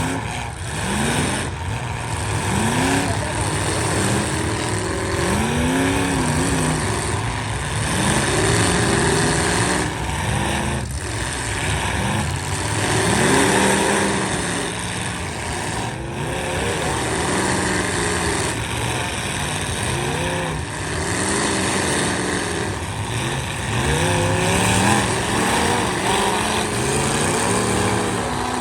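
Several demolition derby cars' engines revving hard at once, their pitch repeatedly rising and falling as the drivers throttle on and off.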